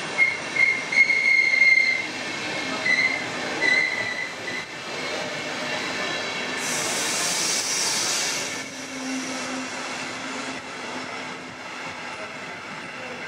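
Deutsche Bahn Intercity coaches rolling along the station tracks. Their wheels squeal in high-pitched tones for the first few seconds, and a loud burst of hiss runs for about two seconds around the middle.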